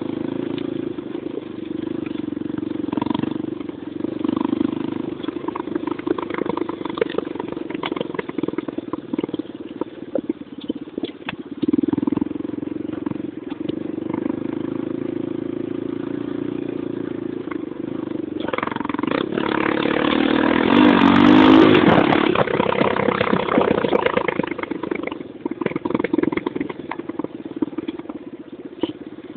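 Motocross motorcycle engine running, its note rising and falling with the throttle. It grows loudest and revs about twenty seconds in, then fades toward the end.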